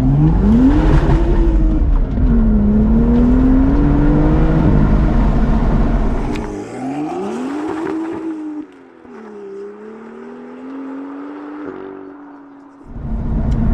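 Sports car pulling away under hard acceleration: the engine note climbs, drops at a gear change about two seconds in and climbs again. Past the middle it is quieter, rises and falls once more, then holds a steady lower note before cutting off near the end.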